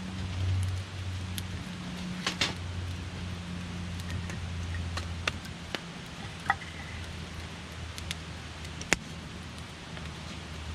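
Wood campfire crackling, with scattered sharp pops and snaps, the loudest one about a second and a half before the end, and a brief faint hiss-whistle from the burning wood midway. A steady low hum runs underneath.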